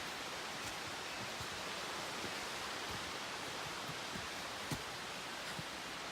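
Mountain stream rushing over rocks: a steady hiss of flowing water, with a few faint low thumps.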